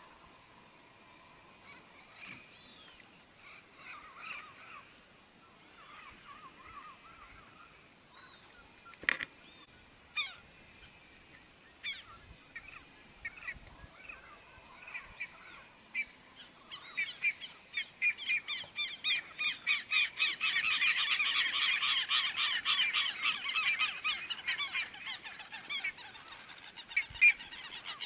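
Birds calling: scattered, sliding calls at first, then, from a little past halfway, a loud flock of rapidly repeated calls that swells and then thins out near the end.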